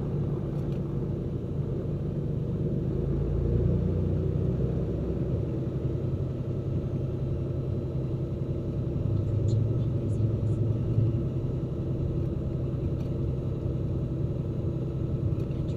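Cessna P210N's turbocharged six-cylinder piston engine and propeller droning steadily in the cockpit at takeoff power, the low drone growing stronger about three seconds in.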